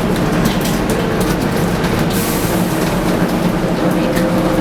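Scania K280UD double-decker bus under way, heard from inside: a steady engine drone with road and running noise, and a short hiss about two seconds in.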